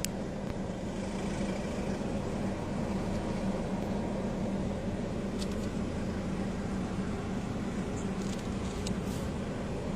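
Steady mechanical hum with a constant low drone under a rushing noise, with a few faint clicks in the second half.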